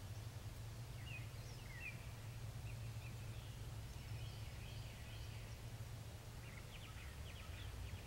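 Faint bird chirps: a few short scattered notes through the first half and a quick run of short notes near the end, over a steady low rumble.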